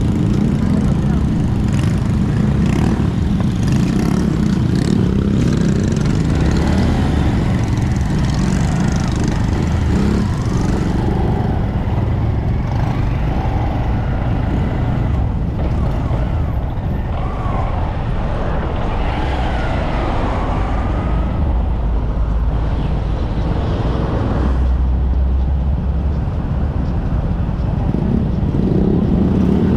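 Honda Monkey 125 single-cylinder engine running under way at steady speed, with continuous road and wind noise over a low drone.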